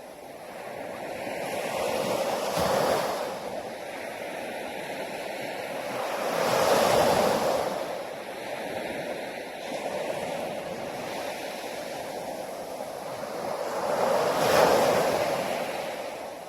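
Sea waves breaking on a shore, three swells of surf rising and falling over a steady wash, with the loudest break near the end.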